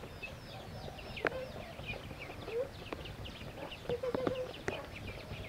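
A flock of ducklings peeping in a continuous chorus of short, high chirps, with a few lower calls and some sharp clicks.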